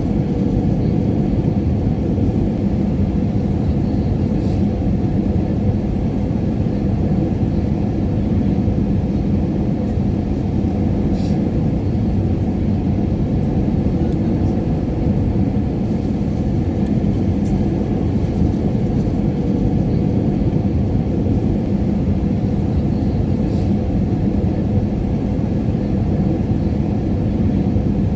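Airliner cabin noise in flight: a steady, unchanging low rumble with a faint constant hum and a few faint ticks.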